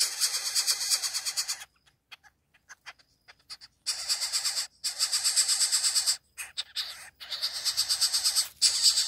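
Coucal chick begging for food: a fast, pulsing rasping hiss that comes in bursts of one to two seconds, repeated several times with short pauses between.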